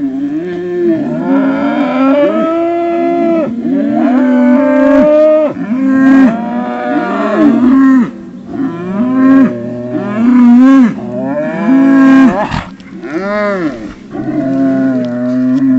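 Highland bulls calling in a string of loud, rising-and-falling groaning moos, Wookiee-like, one call following another with hardly a break and some overlapping.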